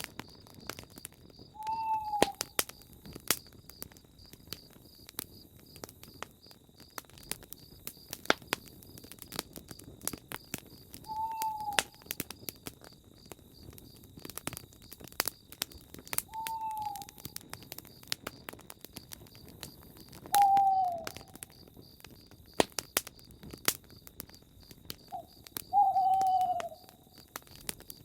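Owl hooting: five short, slightly falling hoots every few seconds. Wood fire crackling and popping with sharp snaps throughout, over a faint steady high-pitched hum.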